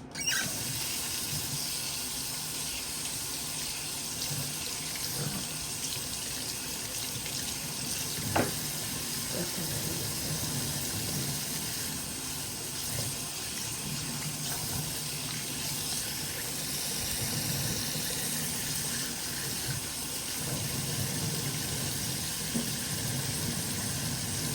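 Bathroom sink tap turned on and running steadily, water splashing into the basin, with one sharp knock about eight seconds in.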